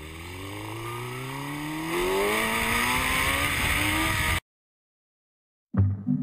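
A car engine accelerating, its pitch and loudness rising steadily for about four seconds, then cutting off suddenly.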